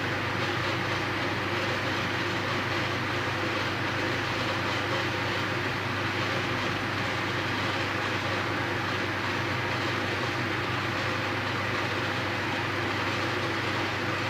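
A steady, unchanging hum and hiss with no distinct knocks or clicks of tools.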